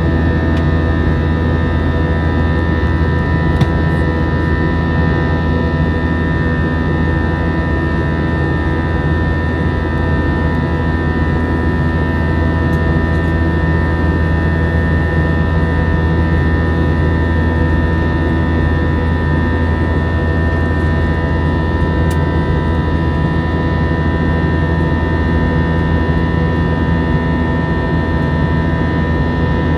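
Airbus A321 in flight, heard from inside the cabin: the steady drone of its twin jet engines and the airflow, a strong low hum with several steady higher whines over it.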